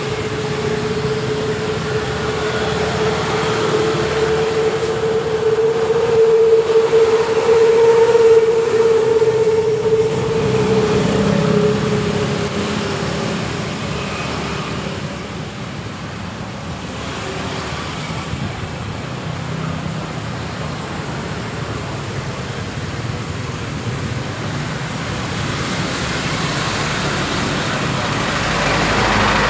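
Road traffic going by. One passing vehicle's steady hum grows louder, then fades out about twelve seconds in, and the traffic noise swells again near the end.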